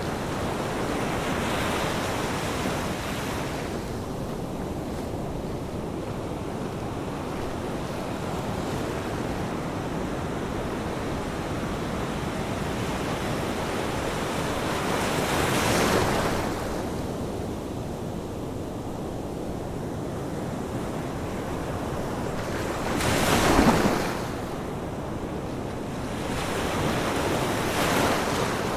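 Ocean surf: a continuous wash of waves with four breakers surging up and falling back, the loudest about two-thirds of the way through.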